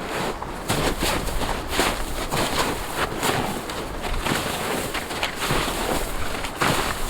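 Packed snow and ice being chipped and dug out by hand, a quick irregular run of crunching strikes and scrapes.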